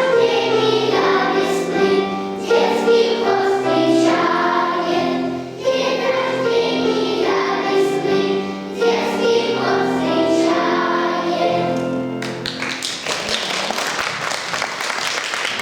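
Children's choir singing a song to the end; about twelve seconds in the singing stops and the audience applauds.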